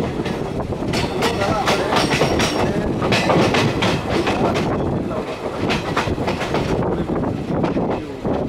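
Passenger train running along the track, heard from its open doorway: a steady rumble of wheels and rushing air, with a run of sharp wheel clacks over rail joints, thickest between about one and four seconds in.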